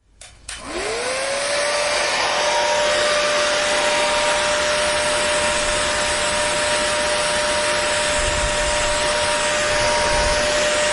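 Hair dryer switched on with a click, its motor whine rising in pitch over about a second as it spins up, then running at a steady whirr with a loud even rush of blown air.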